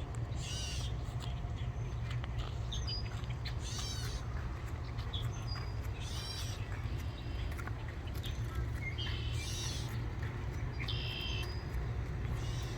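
Birds calling: short chirps and whistled notes every second or two, over a steady low rumble.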